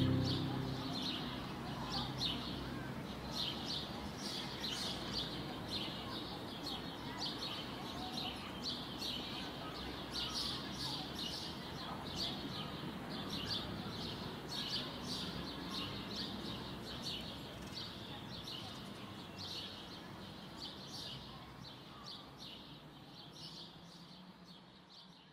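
Birds chirping in many short, rapidly repeated calls over a faint steady background hiss, the whole fading out near the end.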